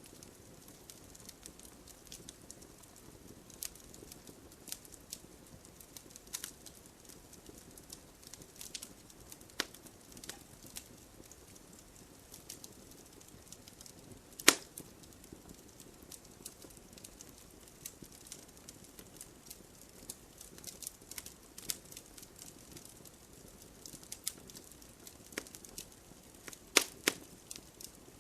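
Wood fire burning in a fireplace: a low steady hiss with irregular sharp crackles and pops from the burning logs, the loudest pop about halfway through and a quick cluster of pops near the end.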